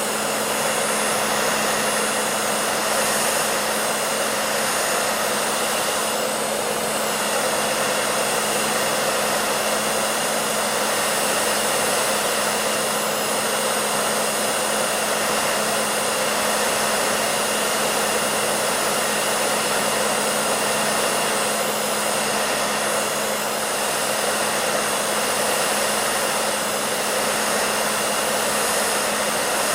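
Hair dryer running continuously: a steady, even rush of airflow over a constant motor hum.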